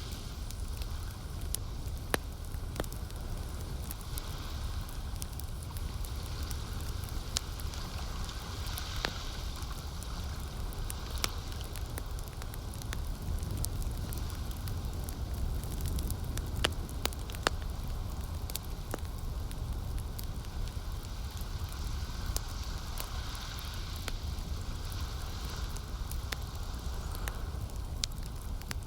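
Campfire burning, with scattered sharp crackles and pops over a steady low rumble. A soft hiss of lake water swells and fades behind it.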